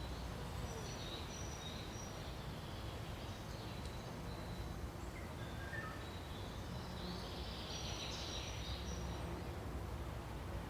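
Forest ambience: a steady low hiss and rumble with faint, scattered high bird calls and chirps, a few quick ones about halfway through.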